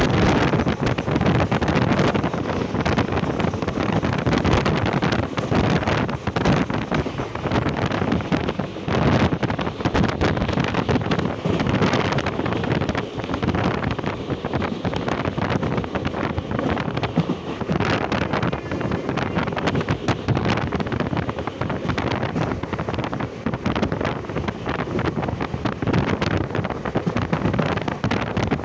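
Express passenger train running at high speed: a steady rush of wind over the microphone mixed with the rumble of the coach on the track.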